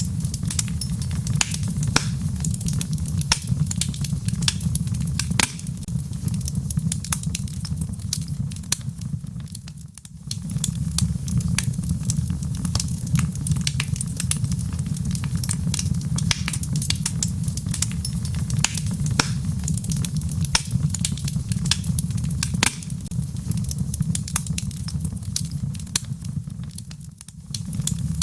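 Logs burning in a fireplace, crackling with many sharp pops over a steady low rumble of the flames. The sound briefly dips twice, about ten seconds in and near the end.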